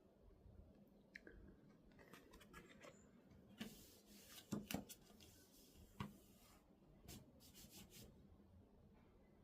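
Faint rustling and rubbing, with a few short scrapes and soft clicks clustered around the middle.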